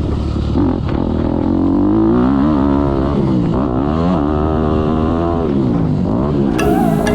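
Motocross bike engine revving up and down as it is ridden, its pitch rising and falling every second or so with the throttle and gear changes. Music comes in near the end.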